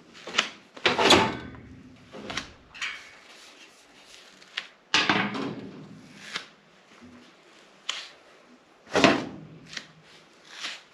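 Sheet-metal furnace cabinet access panels being handled and pulled off: a series of clanks and knocks with rattling between, loudest about a second in and again about nine seconds in.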